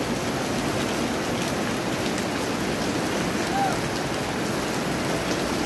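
Heavy rain pouring onto a wet paved street, a steady, even hiss.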